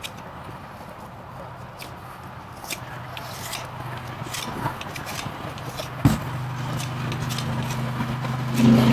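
Farrier's tools working on a horse's hoof: short scrapes and clicks of hoof trimming and cleaning, with one sharp knock about six seconds in, over a steady low hum.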